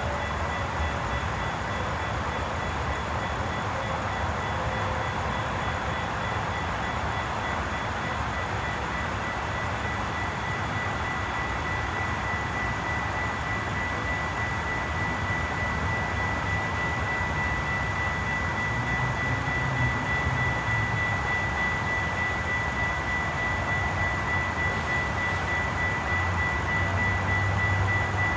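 A train rolling past with a continuous rushing and rumbling noise, a steady high tone ringing above it; the low rumble grows a little louder in the last several seconds.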